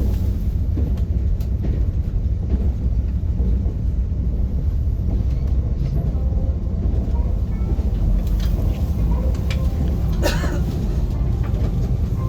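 Train running along the track, a steady low rumble heard from inside the carriage, with a brief sharp clack about ten seconds in.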